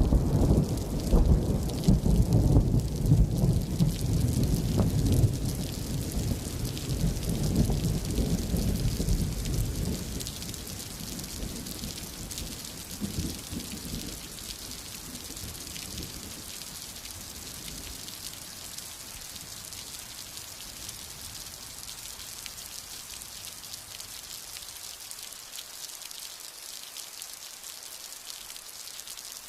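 Steady rain hissing while a long roll of thunder rumbles deep and loud, dying away about ten seconds in, with a short weaker rumble a few seconds later; after that only the rain goes on.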